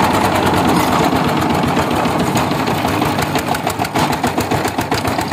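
Power tiller diesel engine running steadily, with a fast, even knocking beat.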